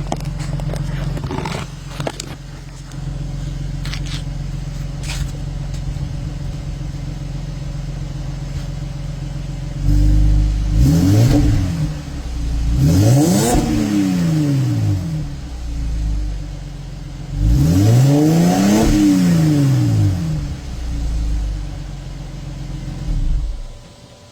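2012 Mercedes-Benz C300 4Matic's 3.0-litre V6 idling through its factory exhaust with the catalytic converters deleted, then revved three times, the pitch climbing and falling back each time, the third rev the longest. Pretty quiet for a catless exhaust.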